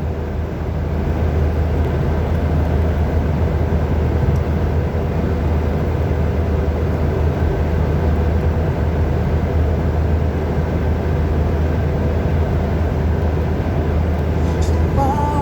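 Steady, loud wind of a sandstorm blowing, a low rumble with a rushing hiss over it. Near the end a wavering pitched sound comes in over it.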